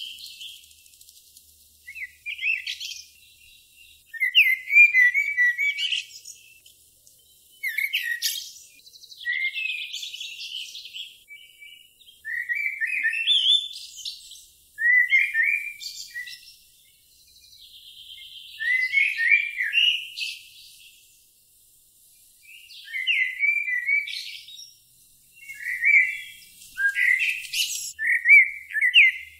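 A songbird singing short, quick warbling phrases, a new phrase every two to four seconds, some with a buzzy trill.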